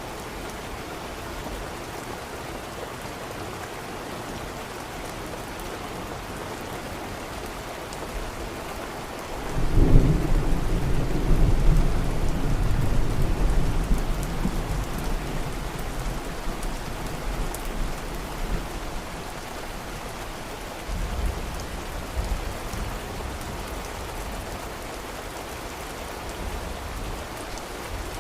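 Steady rain. About a third of the way in, a roll of thunder breaks in, loudest for a few seconds and then rumbling away. A second, weaker rumble follows about three quarters of the way through.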